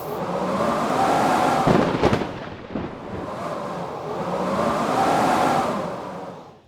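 Blizzard wind howling in gusts, swelling and fading twice with a whistling tone, with a few sharp cracks about two seconds in.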